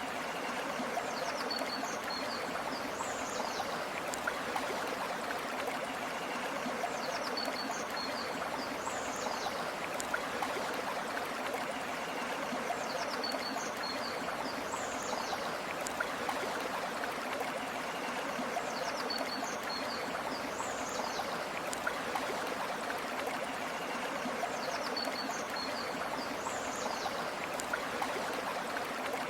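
River water flowing steadily over stones, with a short high bird call repeating about every six seconds.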